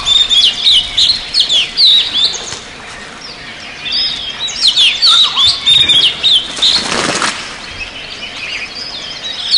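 Forest birds singing: rapid, repeated, down-sweeping high chirps, briefly easing off a few seconds in. Near the end a short whooshing rush of noise sounds once for under a second.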